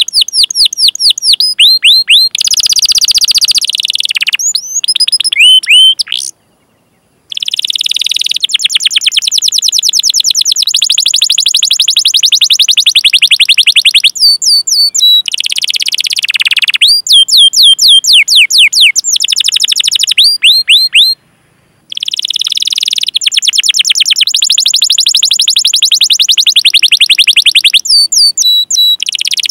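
Domestic canary singing fast rolling trills of rapidly repeated sweeping chirps, in long phrases that change from one note type to another. The song breaks off into two short silences, about six and twenty-one seconds in.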